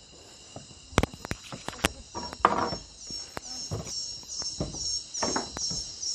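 Night chorus of rainforest insects such as crickets: a steady high trilling, joined about two seconds in by a pulsing chirp at about three a second. Close sharp knocks and rustles cut through it, loudest about a second in and again at about two and a half seconds.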